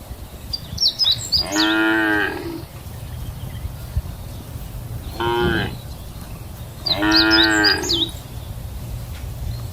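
A cow mooing three times: two long moos with a short one between them. High chirping is heard alongside the first and last moos.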